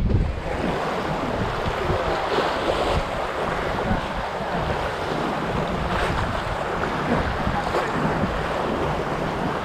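Wind buffeting the microphone over water rushing along a sailboat's hull while under way, steady throughout.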